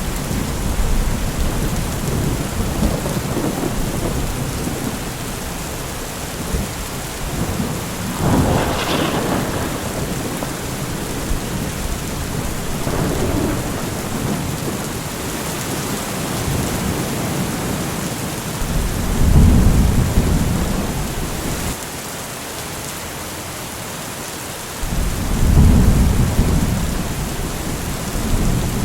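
Steady rain with thunder: a sharper clap about eight seconds in, then deep, low rumbles of thunder twice in the second half.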